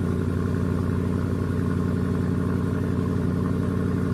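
Car engine idling steadily at an even, unchanging pitch.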